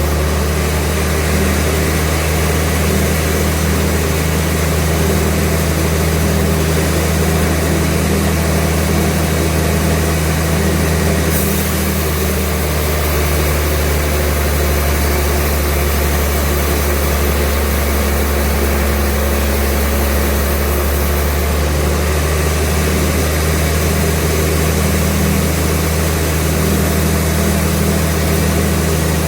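Sawmill machinery running steadily with a low engine drone. About a third of the way in, a higher hiss joins for roughly ten seconds, then drops away.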